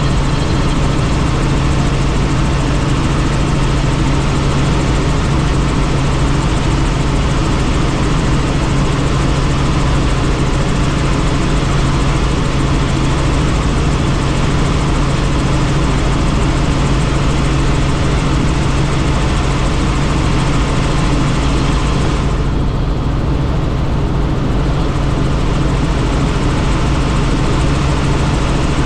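Helicopter in flight heard from the open, doors-off cabin: loud, steady rotor and engine noise with rushing wind, and a strong low hum throughout. About two-thirds of the way in, the high hiss drops away for a few seconds.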